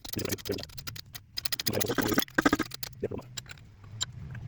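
Quick run of metallic clicks and rattles as a supercharger rotor is pressed onto its new bearing, over a low steady hum.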